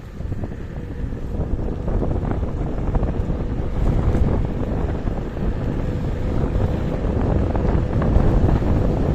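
Wind buffeting the microphone and road rumble from a KuKirin G2 electric scooter riding at speed. It grows louder over the first two seconds as the scooter speeds up, then holds steady, with a faint steady whine underneath.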